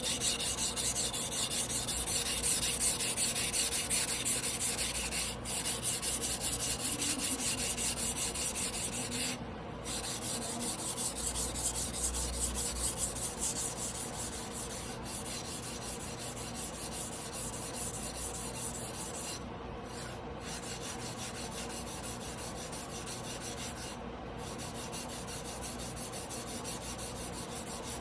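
Tojiro Damascus blue-steel yanagiba blade being hand-sharpened on a whetstone: steady, rapid back-and-forth strokes of steel rubbing on the stone, a little quieter after the first half.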